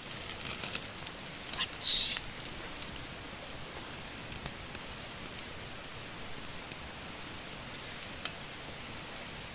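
Yakiniku meat sizzling on a grill over a wood campfire, with the fire crackling in scattered sharp pops and a brief louder hiss about two seconds in.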